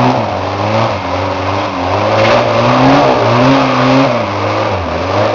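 Off-road 4x4's engine revving up and down under load as it struggles to climb through deep mud, its pitch rising and falling several times.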